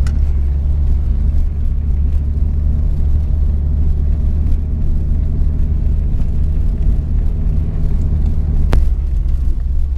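Steady low rumble of a 1970s Soviet-era van's engine and running gear, heard from inside the cabin while driving. A faint steady whine runs through the middle, and there is one sharp click about a second before the end.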